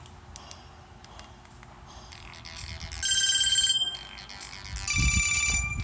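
A Samsung GT-E1200 keypad phone's loudspeaker playing a ringtone: short electronic melodic phrases that start faintly about two seconds in and play loudly twice. It is a test of the speaker after water-damage repair.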